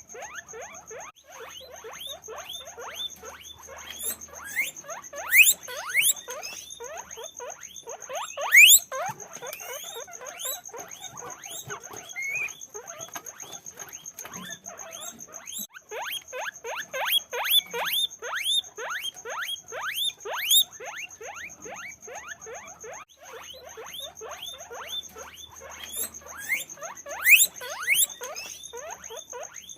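Many guinea pigs squeaking and wheeking, a dense run of short rising calls with a few louder, long upward squeals now and then.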